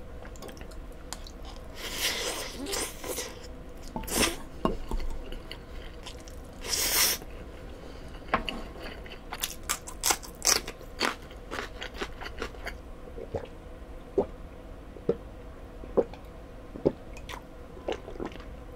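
Close-miked eating: cold bibim-myeon noodles taken in and chewed, then crisp crunching as a raw green cucumber pepper (oigochu) is bitten and chewed, with short crunches every half second or so through the second half.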